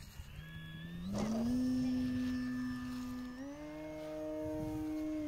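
Electric motor and propeller of a Carbon-Z Cessna radio-controlled model plane, a steady whine that steps up in pitch about a second in and again past the middle as it speeds up, then starts to drop right at the end.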